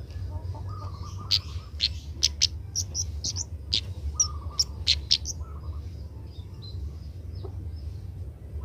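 Kemade bird calling: a quick run of sharp, high chirps and short whistles from about a second in until about five seconds, then softer twitters. A steady low hum runs underneath.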